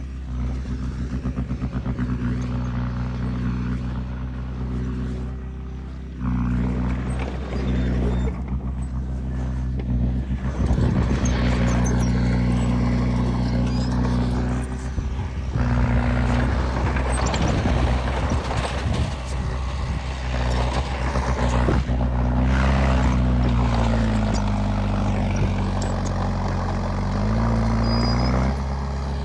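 Heavy diesel earthmoving machine running steadily, with a rushing, clattering noise building from about ten seconds in. Near the end the engine pitch sags, then comes back up.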